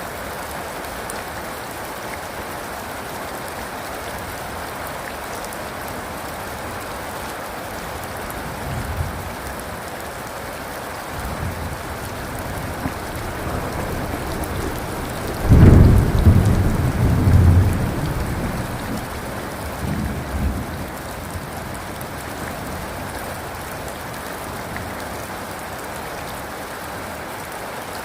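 Steady heavy rain falling, with thunder: low rumbles build from about eight seconds in, a loud clap comes at about fifteen seconds and rolls for a few seconds, then fades into smaller rumbles.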